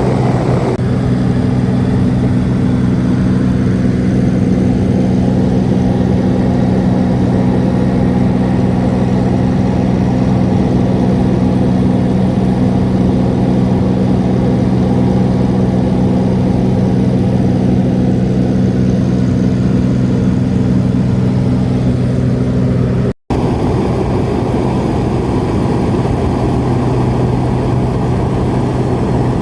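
Steady, loud drone of a small seaplane's propeller engine heard inside the cabin in flight. Near the end there is a brief cut, after which the sound continues as a rougher, less tonal rush.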